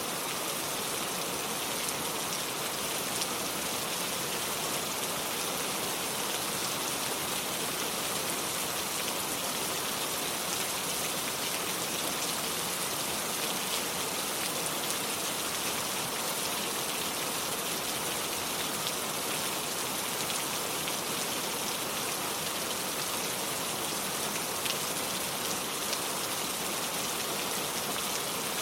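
Steady rain falling: an even hiss with faint, scattered ticks of drops.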